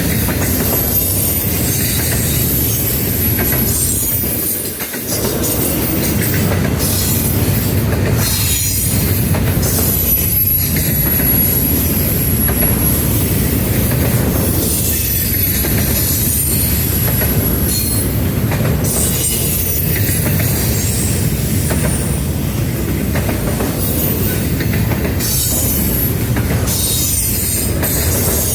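Railroad cars rolling past at close range, a steady loud rumble with thin, high wheel squeals coming and going. The sound drops briefly about five seconds in.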